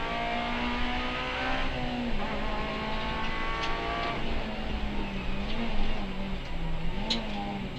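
Honda Civic Type-R FN2's 2.0-litre four-cylinder engine, heard from inside the rally car's cabin while driving at speed down a straight. The pitch holds high, eases down about two seconds in and again about four seconds in, then wavers up and down, over a steady road and tyre noise.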